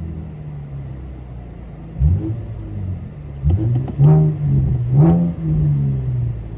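Chevy Camaro 3.6 L V6 with a Rev 9 exhaust, its rear resonators cut out, idling and then revved in several short throttle blips from about two seconds in. The last two blips are the loudest. It is heard from inside the car's cabin.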